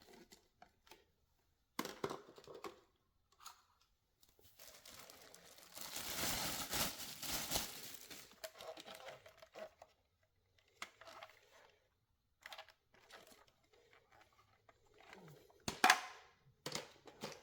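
Plastic packaging crinkling and hard plastic vacuum parts being handled, with scattered light clicks and knocks and a longer rustle about four to nine seconds in.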